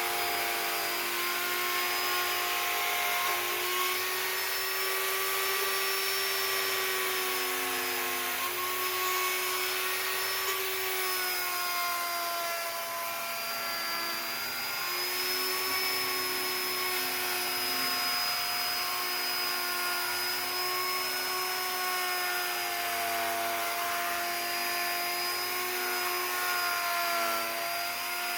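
Electric power carving tool running continuously on wood, a steady whine whose pitch wavers slowly up and down.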